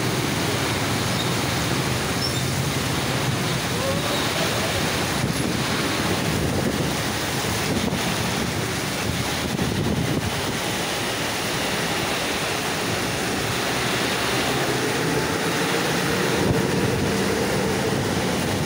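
Heavy tropical downpour with strong wind: a steady, even rush of rain, with wind buffeting the microphone. Traffic passes on the wet road, and a vehicle's engine hum comes up faintly near the end.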